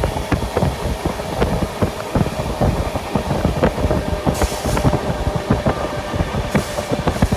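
Express train coach running on the track, with a dense irregular rattle and clatter of wheels over the rails and a rumbling background. Two brief hissing rushes come about four and a half and six and a half seconds in.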